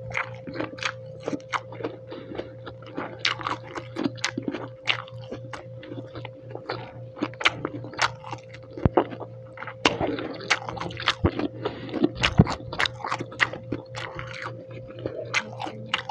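Close-miked chewing of a mouthful of dried pork adobo, heard as many irregular wet clicks, smacks and small crunches. A faint steady hum runs underneath.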